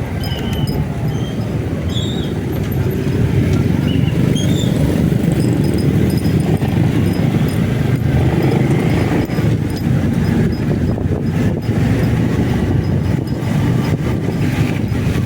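Motorcycle riding along with a steady low engine and road rumble and wind on the microphone.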